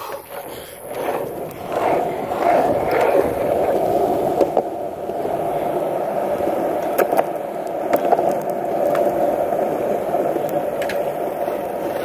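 Skateboard wheels rolling fast over pavement, a steady rolling rumble that builds over the first couple of seconds, with a few sharp clicks as the wheels cross cracks or joints.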